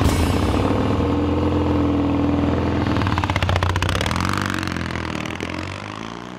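Vintage Triumph motorcycle engine running with a slight rev, its sound fading out over the last couple of seconds.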